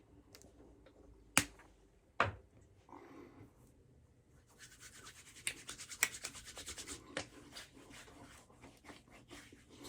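Two sharp clicks about a second apart, then a few seconds of quick, rustling rubbing, like hands working something over skin.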